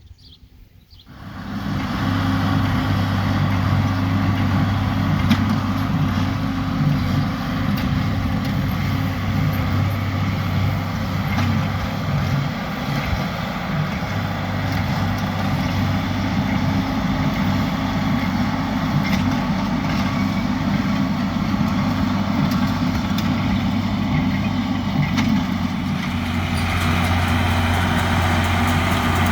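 Tractor engine running steadily, coming in suddenly about a second in, with a slight change in its note near the end.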